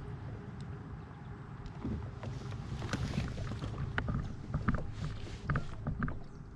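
Handling knocks and clicks in a fishing kayak over a steady low rumble of wind and water, becoming busier about two seconds in.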